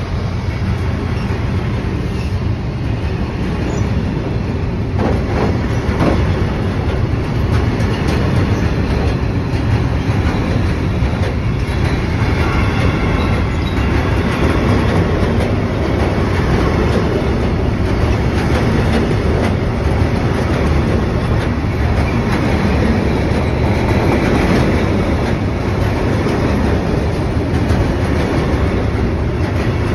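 Long freight train of covered bogie box wagons rolling past close by, a steady noise of steel wheels running on the rails.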